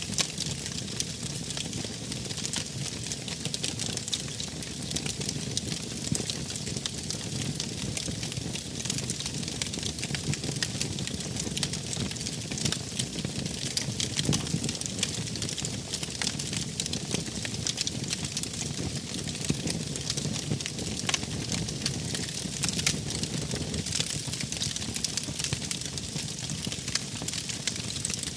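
Wood fire burning steadily, with frequent small crackles and pops over a low, even rush of flame.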